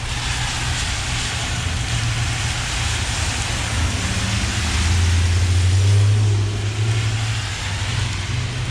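A motor vehicle's engine rumbling nearby over a steady hiss, the low hum swelling louder for a couple of seconds around the middle.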